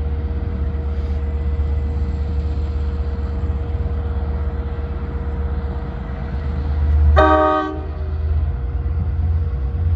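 A diesel locomotive's engine running with a steady low rumble. About seven seconds in comes one short blast, about half a second long, on its bled K5LA horn.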